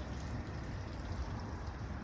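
Wind buffeting the microphone outdoors: a steady, uneven low rumble with a faint hiss above it.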